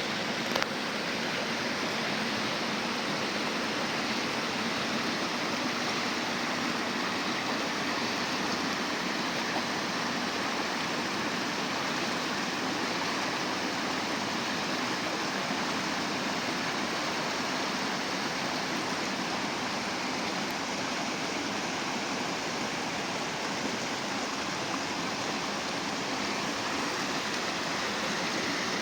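Small river flowing, a steady even rush of water, with one brief knock about half a second in.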